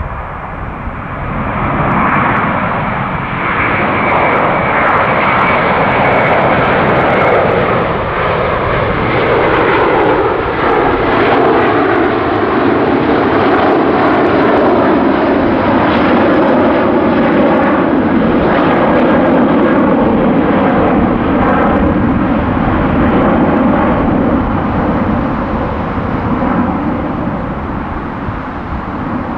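An Airbus A330-300's twin Pratt & Whitney PW4000 turbofans at takeoff thrust, a loud jet roar that swells about two seconds in. Its pitch falls steadily as the airliner passes, and it eases off slightly near the end.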